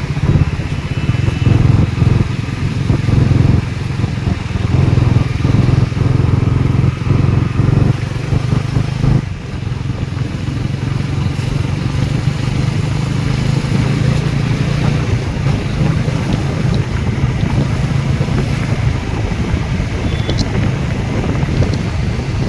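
Bajaj Pulsar motorcycle engine running while riding, uneven at first, dropping suddenly about nine seconds in and then running steadier.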